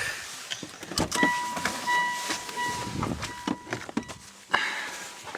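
Sounds of a parked car as someone gets out: a sharp click about a second in, a high steady beep sounding on and off several times, and a sharp knock past four and a half seconds.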